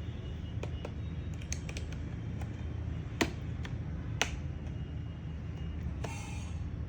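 Scattered sharp plastic clicks and taps as a stuck laptop bottom cover is worked at, with two louder snaps about three and four seconds in and a short scrape near the end, over a steady low hum.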